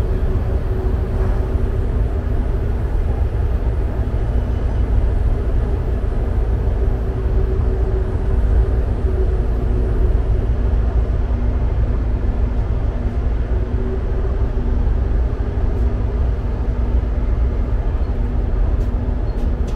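Interior noise of a diesel multiple unit running at speed: a steady low rumble of wheels on rail, with a constant hum underneath.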